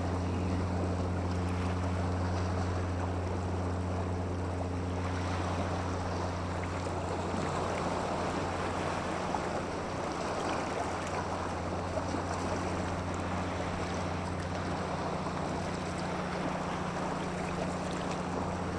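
Steady rushing of water with some wind, over a constant low hum that fades somewhat in the middle and comes back near the end.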